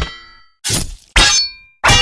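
A quick series of metallic clangs, each strike ringing briefly before the next: about three in two seconds, with the ring of an earlier one fading at the start.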